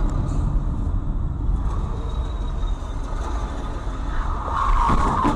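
Low, steady rumble of a moving vehicle's engine and road noise, picked up by a dashcam, swelling a little near the end.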